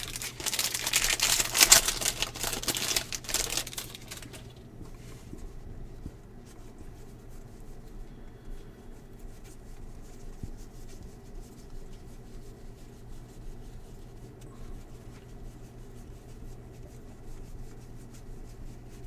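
A trading-card pack's foil wrapper torn open and crinkled for about three seconds. Then quieter scattered clicks and rustles of the cards being handled and flipped through.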